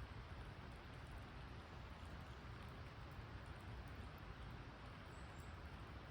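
Faint campfire crackling, a few scattered light ticks over a steady low outdoor rumble, with two brief high chirps about five seconds in.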